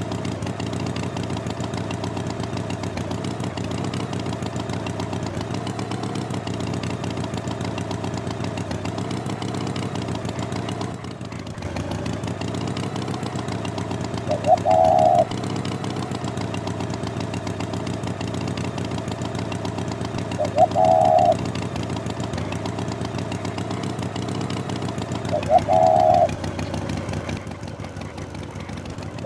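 An engine running steadily, with four short, louder higher-pitched sounds breaking in from about halfway, roughly five seconds apart.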